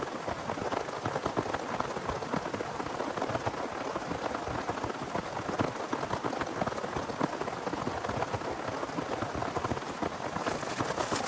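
Steady rain falling, a dense patter of drops at an even level. Sharper clicks join in near the end.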